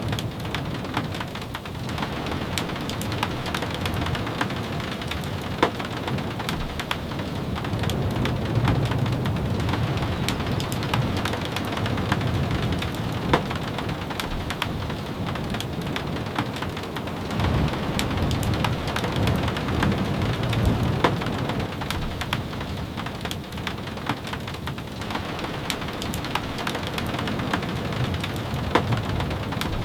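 Steady rain falling on a cabin roof and windows, a dense hiss with many sharp drop ticks. A low rumble swells up twice, about a third of the way in and again just past halfway.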